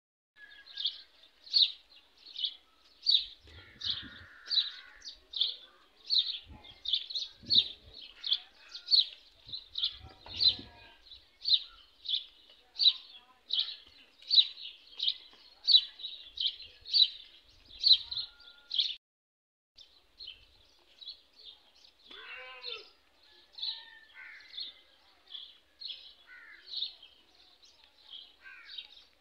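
A bird repeating one short, high chirp over and over, a little more than one a second, until it stops about nineteen seconds in. Fainter, scattered chirps follow.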